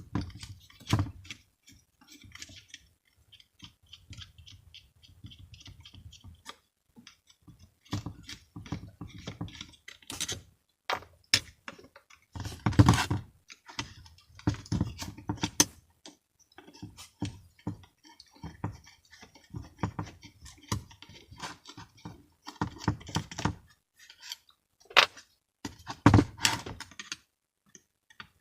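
Screwdriver and small metal parts of a moped's electric starter motor clicking, clinking and knocking as it is unscrewed and taken apart by hand, with louder clatters about 13 and 26 seconds in.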